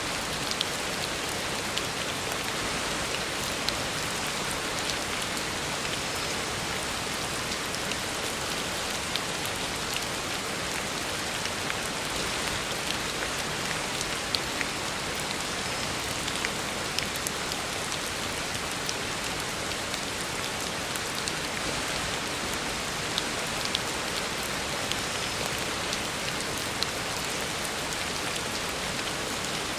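Heavy rain falling steadily on a road surface, a dense even hiss with scattered sharper drop impacts.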